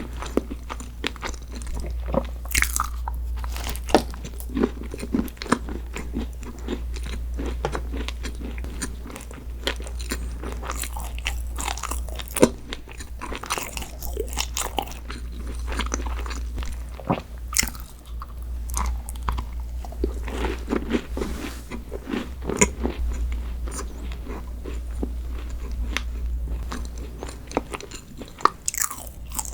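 Close-miked eating: repeated bites and crunchy chewing of desserts, many sharp crackles throughout, over a steady low hum.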